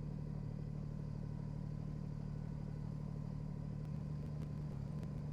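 Kubota BX25 compact tractor's three-cylinder diesel engine idling steadily, with a few faint clicks near the end.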